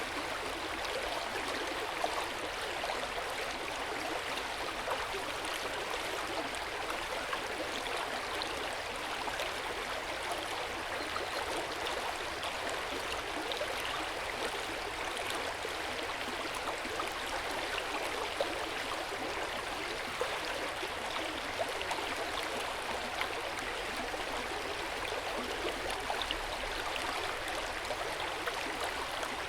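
Hot spring water pouring into an open-air bath: a steady, gentle splashing and trickling with small drips and splashes scattered through it.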